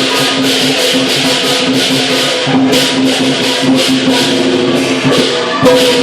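Lion dance percussion: hand cymbals clashing a few times a second in a fast, steady beat, over a steady ringing tone.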